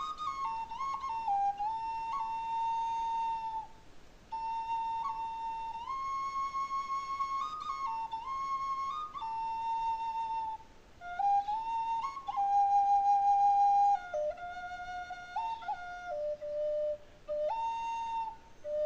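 Native flute playing a slow solo melody of long held notes, in phrases separated by short breath pauses. Near the end a phrase steps downward in pitch before rising again.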